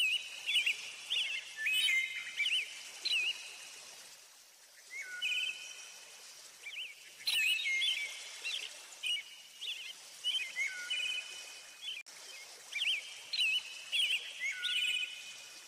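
Songbirds singing: short whistled and warbling phrases repeated in clusters with brief pauses, over a faint steady hiss.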